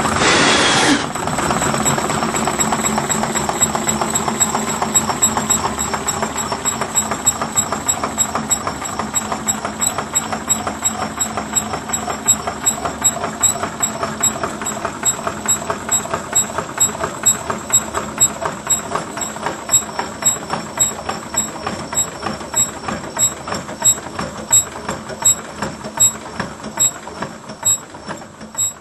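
Home-built five-cylinder tin-can Stirling engine running with a rapid mechanical clatter, after a brief falling sweep at the start. The clicking slows and grows fainter toward the end as the engine winds down.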